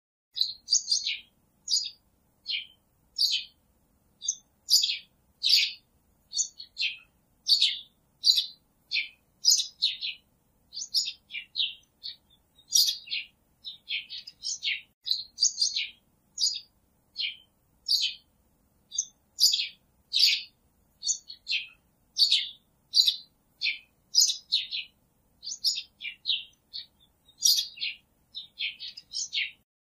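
A small bird chirping over and over: short, high chirps, about one to two a second, each sliding downward in pitch.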